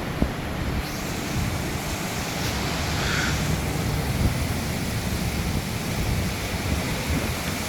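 Strong haboob dust-storm wind blowing and buffeting the microphone: a steady rushing noise over a gusty low rumble.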